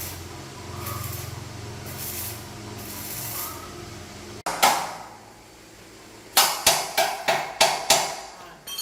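A motorbike-sized engine idling steadily, cut off abruptly about halfway through. Then a hammer strikes metal: one loud ringing blow, followed near the end by six quick strikes about a third of a second apart.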